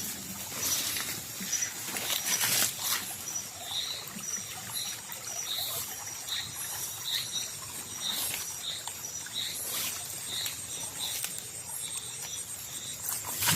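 Night rainforest insect chorus: a steady high-pitched buzz and an evenly pulsed chirp, with short calls repeating about twice a second. A few rustles and crackles of brush or leaves come through, the loudest a few seconds in.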